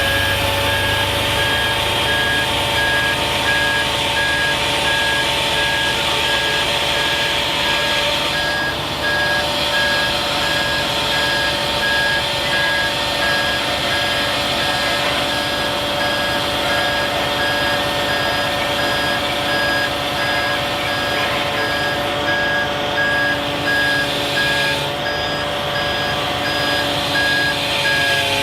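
Kenworth T880 hook truck's backup alarm beeping in a steady, even repeat over the truck's running engine and a steady whine from the running machinery.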